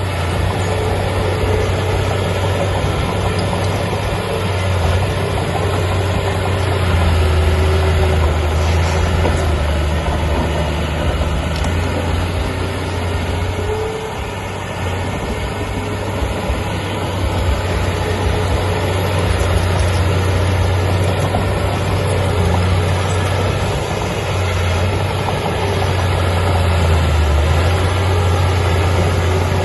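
Heavy diesel engine of a bulldozer or dump truck running steadily with a deep low hum, its loudness swelling and easing slightly.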